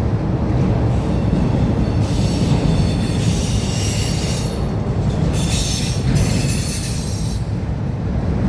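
CSX manifest freight train rolling past with a steady low rumble. Its steel wheels squeal high against the rail from about two seconds in until about a second before the end.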